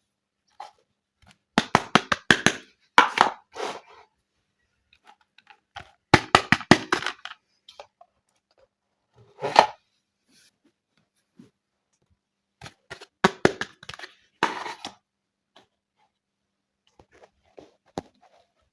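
Small plastic toy pieces and packaging handled close to the microphone: bursts of quick, sharp clicks and short rustles with pauses between.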